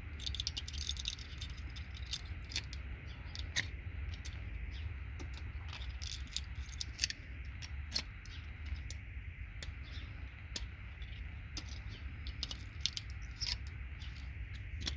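Irregular small clicks and ticks of metal and plastic as gold-plated RJ45 jack pins are bent back and forth by hand on a patch panel circuit board to snap them off, over a steady low hum.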